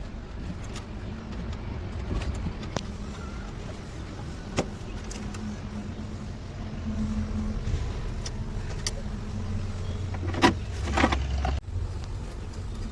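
Scattered light clicks and knocks of hand work on a Mahindra Bolero's diesel fuel filter, over a steady low rumble; a short, louder clatter about ten and a half seconds in.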